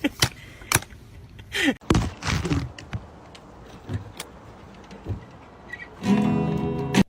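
Acoustic guitar music with sharp plucked and strummed notes, ending in a held chord that cuts off suddenly near the end.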